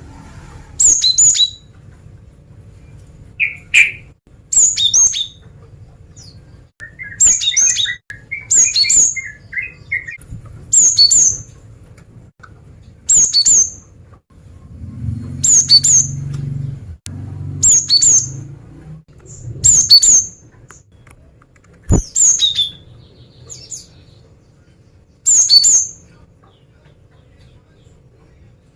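Cinereous tit (gelatik batu), given as a female, calling: short, sharp, high call phrases repeated about every two seconds, with a few lower chattering notes in the first third. A low rumble rises and falls in the middle, and a single sharp click comes near the end.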